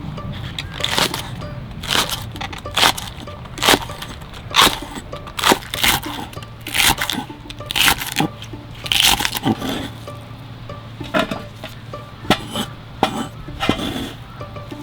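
Kitchen knife cutting on a cutting board, sharp strokes about once a second, then coming more unevenly in the second half, over soft background music.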